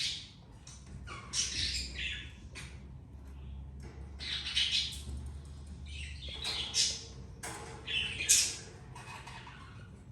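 Budgerigars giving a series of about five harsh, raspy squawks, the loudest near the end.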